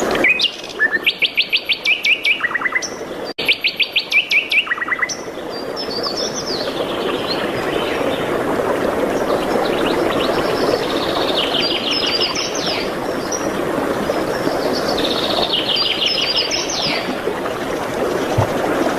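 Songbirds singing: two loud, fast trills of rapidly repeated notes in the first five seconds, then more trilled and warbled phrases later on, over a steady rushing background noise.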